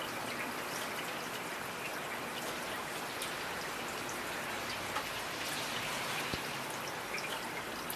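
Steady rain, with scattered individual drops ticking on a hard surface.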